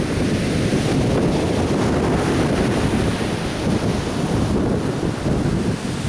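Atlantic Ocean surf breaking on a beach, a continuous wash of waves, with wind buffeting the microphone and adding a low rumble.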